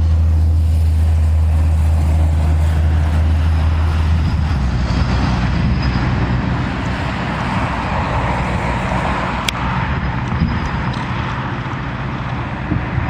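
A motor vehicle's engine running with a steady low hum. About four seconds in it gives way to a broader, rougher rumbling noise, and there is a single sharp click near the end.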